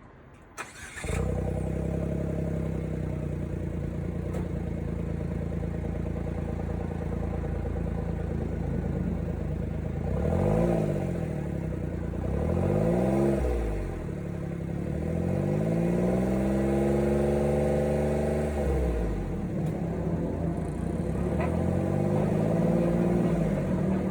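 Suzuki Every (DA17W) three-cylinder 660 cc kei engine heard through a bluefin aftermarket muffler: it starts about half a second in and idles steadily. It is then revved, two quick blips followed by a longer held rev and one more rev near the end.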